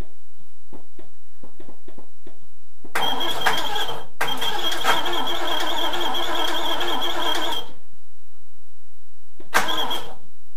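Triumph Stag's 3.0-litre V8 being cranked on the starter motor. There is a short burst, a brief break, then about three and a half seconds of steady cranking with a high starter whine, and one more short burst near the end.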